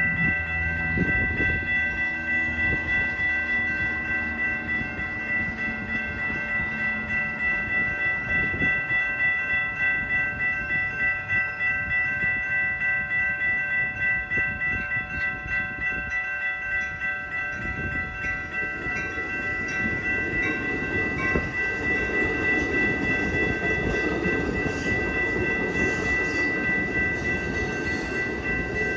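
Electronic railroad crossing bell ringing steadily and repetitively as a passenger train passes through the crossing. The train's wheel-on-rail noise builds from about two-thirds of the way in and becomes the loudest sound.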